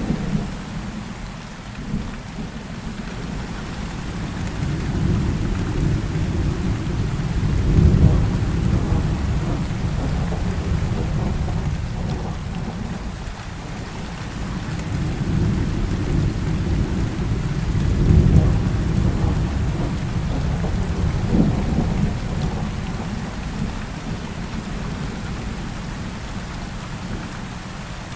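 Heavy rain falling steadily, with rolling thunder: two long, low rumbles swell and fade, the loudest about 8 seconds in and about 18 seconds in.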